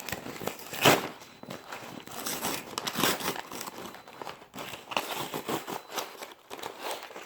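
Paper microwave popcorn bag crinkling and rustling as it is pulled open by hand, in irregular crackles with one sharper, louder crackle about a second in.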